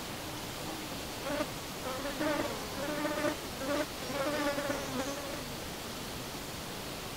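A flying insect buzzing close by, its wingbeat hum wavering in pitch and coming and going in several passes for about four seconds from around a second in, over a steady background hiss.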